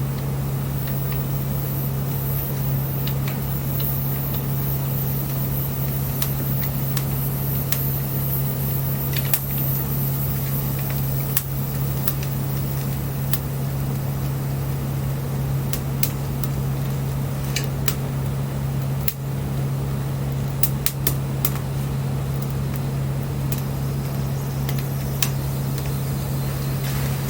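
Wood fire burning, with scattered sharp crackles and pops over a steady low hum.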